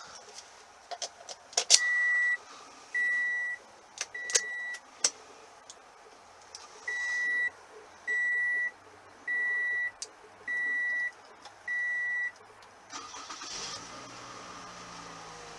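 A few key clicks, then the 2016 Toyota Camry SE's warning chime beeps three times, pauses, and beeps five more times. Near the end the car's 2.5-litre four-cylinder engine cranks briefly, starts, and settles into a steady idle.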